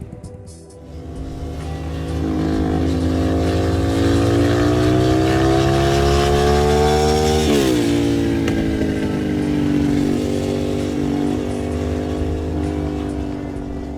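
A custom cafe-racer motorcycle engine running and pulling under throttle. Its pitch climbs steadily for several seconds, drops sharply about halfway through, then eases lower and rises again near the end.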